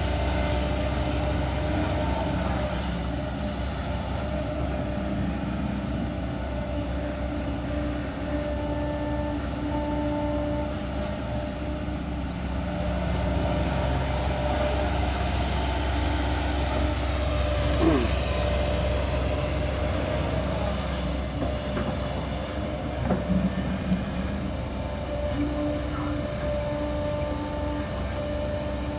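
Kobelco SK140 excavator working: a steady diesel drone with whining tones that come and go, and a single clank about two-thirds of the way through.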